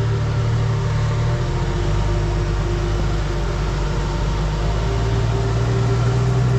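Off-road vehicle's engine running at low crawling speed with a steady low hum and rumble. The hum eases a little partway through and builds again near the end.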